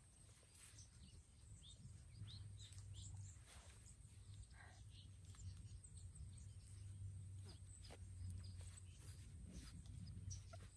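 Near silence: quiet outdoor ambience with scattered faint bird chirps over a low, steady rumble.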